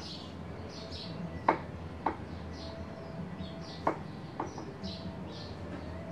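Small birds chirping over and over, with four sharp knocks spread through.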